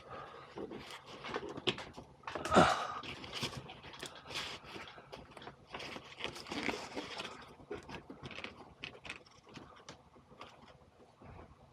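Irregular clicks, knocks and scrapes of hand tools and copper refrigerant pipe being handled, with a louder knock about two and a half seconds in.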